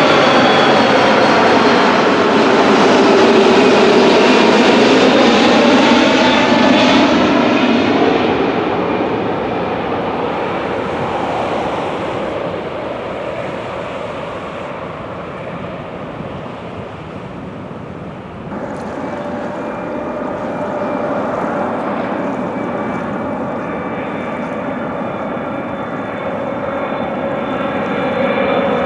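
Jet airliner passing close, loud at first with a sweeping, phasing roar that fades away. About two-thirds of the way through the sound steps up abruptly and a steady jet engine roar with a high whine carries on.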